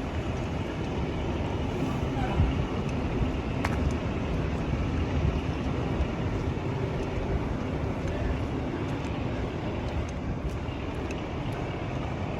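Steady low rumble of vehicle engines and street traffic, with a faint engine hum and one brief click.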